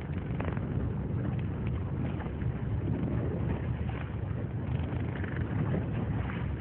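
Motor launch underway: a steady low engine and water noise with wind buffeting the microphone.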